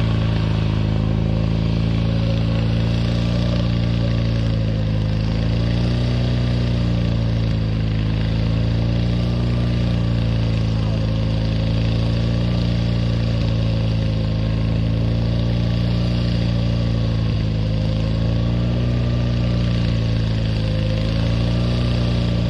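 Lawn mower engine running steadily at idle, its speed gently rising and falling every two to three seconds.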